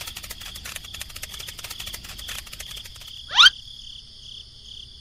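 Crickets chirping in a steady pulsing trill, with fast ticking over it for the first three seconds. A little after three seconds a single quick rising swoosh sounds, the loudest thing.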